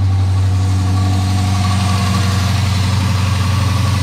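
Dodge Challenger's 5.7-litre (345) HEMI V8 idling steadily just after starting, with a hiss of air that is being sucked in through a hole in the intake manifold: a vacuum leak.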